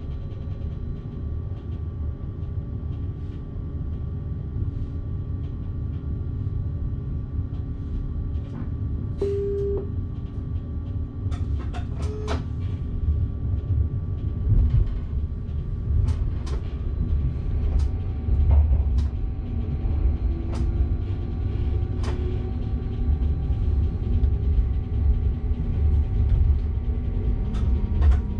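Cab of an electric passenger train running along the track: a steady low rumble that grows louder from about halfway, with a few sharp clicks scattered through it.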